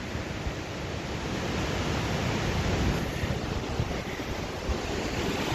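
Waterfall with a heavy flow of water, rushing as a steady, even noise.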